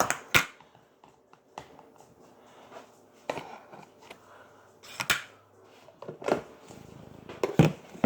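Scattered knocks and clicks of kitchen items being handled, about eight separate sharp sounds with the loudest at the very start, about five seconds in and near the end.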